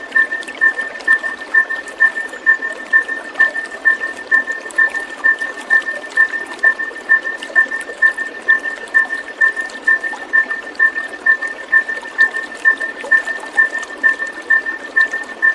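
Trickling water runs steadily under a short two-pitched chirp that repeats evenly, a little over twice a second.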